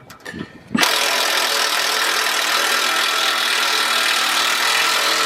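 A machine motor switching on abruptly about a second in and then running at a steady speed, a loud even hiss with a steady hum.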